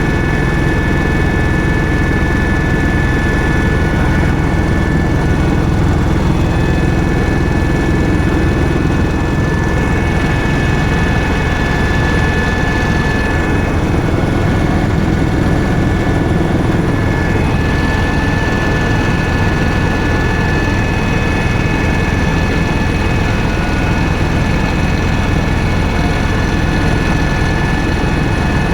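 Helicopter running: a loud, steady drone of rotor and engine noise with a high, steady turbine whine over it.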